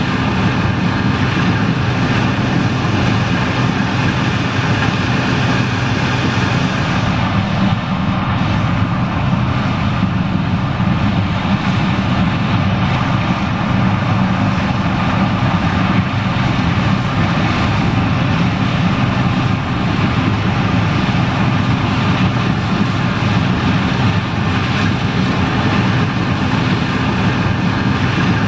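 John Deere 9870STS combine running steadily while harvesting corn: a constant engine and machinery drone with a low hum underneath.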